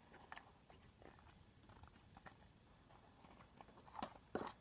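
Faint handling noises of a small packaged film reel being opened: scattered soft clicks and rustles, with a few louder taps about four seconds in.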